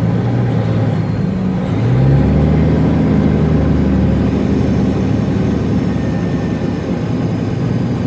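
Loaded semi truck's diesel engine running under load; about two seconds in its note rises quickly to a higher, steady pitch and grows louder, then eases slightly toward the end.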